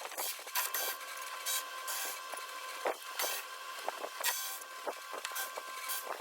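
Irregular scraping and rubbing strokes, several a second and uneven in length, over a steady high-pitched tone.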